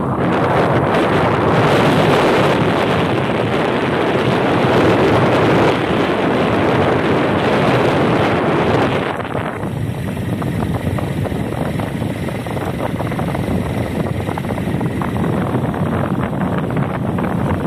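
Wind rushing and buffeting against the microphone from a moving vehicle, with road noise underneath. About halfway through it drops slightly and loses much of its hiss.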